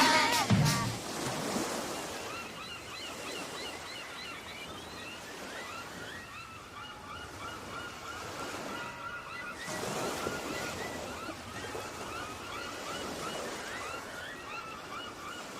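Sound-effect outro of wind and sea surf, a steady rushing hiss with many short, high, repeated calls laid over it. The song's music breaks off about a second in.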